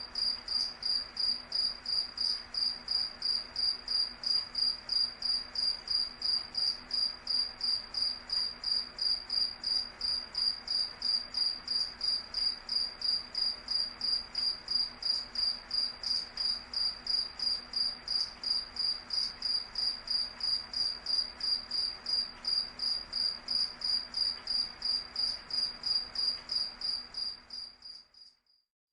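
Cricket chirping steadily, a high pulsed trill of about three to four chirps a second. It fades out briefly near the end and then starts again.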